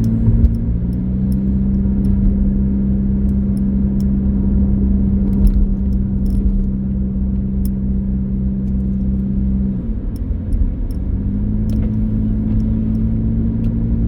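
Car engine and road noise while driving, a steady engine hum over a low rumble. The engine note drops away about ten seconds in and comes back a second later.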